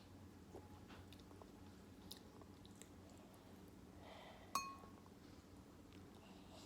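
Quiet eating sounds of someone chewing noodles, with small faint clicks. About four and a half seconds in comes one sharp, ringing clink.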